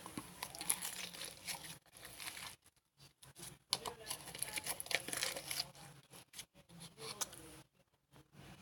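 Slime being squished and stretched by hand, making crackling, popping clicks in two stretches with brief pauses between them.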